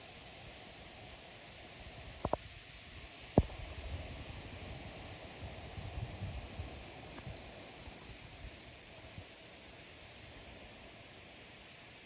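Wind blowing through trees as a steady hiss, with gusts buffeting the microphone as low rumbles, over a steady high hum of insects. Two sharp clicks come a little over two seconds in, and a louder single click about a second later.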